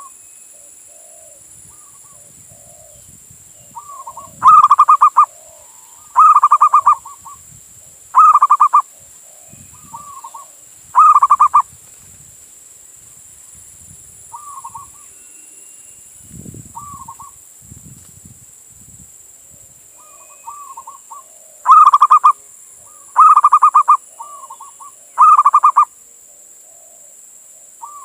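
Male zebra dove (perkutut) cooing. It gives loud, trilled coo phrases of under a second each: a run of four about two seconds apart, a pause, then another run of three near the end. Softer short coo notes come between the phrases.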